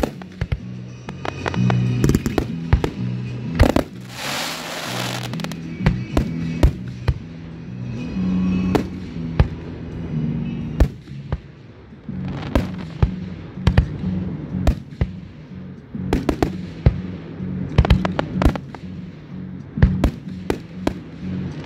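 Aerial fireworks display: shells launching and bursting as many sharp bangs in irregular quick succession, with about a second of hissing shortly after four seconds in. Music plays underneath.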